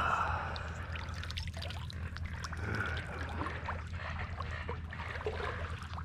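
Shallow water splashing and trickling in many small, irregular splashes.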